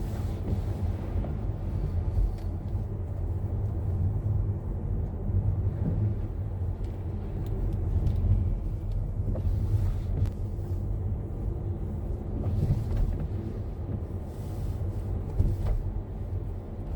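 A car driving, heard from inside the cabin: a steady low rumble of engine and tyre noise with a few faint ticks.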